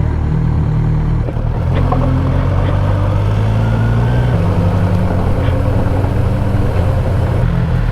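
Motorcycle engine running steadily under way with a constant hiss. The engine note shifts about four seconds in.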